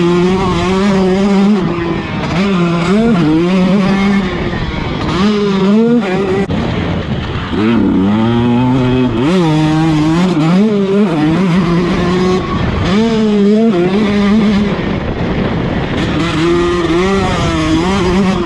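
2019 KTM 150SX two-stroke single-cylinder dirt bike engine being ridden hard. Its pitch climbs and drops back every second or two as the throttle is rolled on and off and the bike is shifted.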